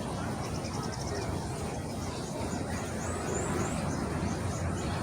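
Small birds chirping in short high notes, with a quick trill about half a second in and a few sweeping chirps around three seconds in, over a steady low rumble.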